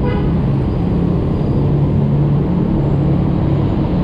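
Yamaha motor scooter's engine running at a steady cruise in traffic, with a strong low rumble of wind on the microphone.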